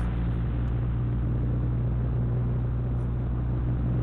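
Steady low drone of a car's engine and road noise while driving, heard from inside the cabin.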